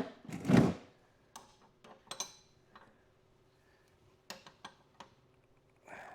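Metal clatter from working a three-jaw puller on a part: one loud, scraping clatter about half a second in, then a string of lighter metallic clicks and taps.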